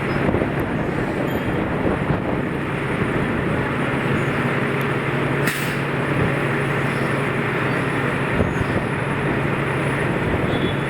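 Steady vehicle engine and traffic noise with a constant low hum, and a short click about five and a half seconds in.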